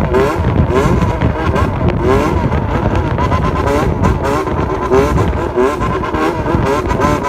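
Yamaha XJR400 inline-four engine blipped over and over at low revs in a bosozoku-style 'call', a waltz-rhythm throttle pattern, its pitch rising and falling with each blip.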